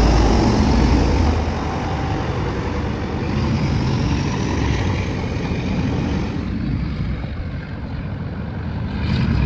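Class 47 diesel locomotive's Sulzer twelve-cylinder engine working as the train pulls away. It is loud for the first second or so, then eases to a lower level, and swells again near the end.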